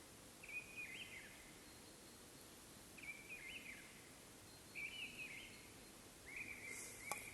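A songbird repeating the same short, clear phrase four times, one to two seconds apart, over faint background hiss.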